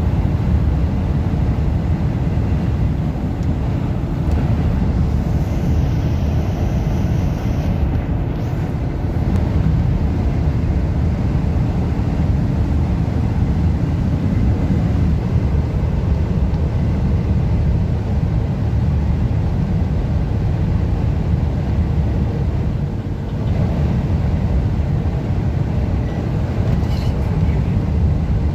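Steady low rumble of a car moving along a highway, road noise mixed with strong sandstorm wind buffeting.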